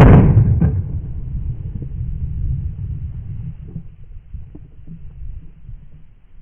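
A shotgun shot, a single loud blast that dies away over about a second, from a Stoeger 2000 semi-automatic shotgun fired at ducks. Strong wind buffets the microphone with a low rumble throughout.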